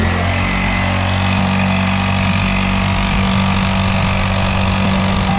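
Small kids' dirt bike engine running at a steady speed while being ridden.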